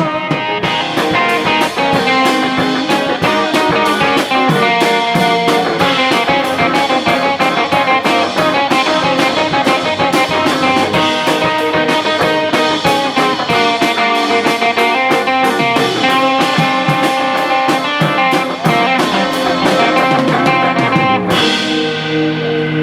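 Live rock band playing an instrumental passage at the end of a song, with guitar over a steady drum beat. About 21 seconds in the drums stop and a held guitar chord rings on.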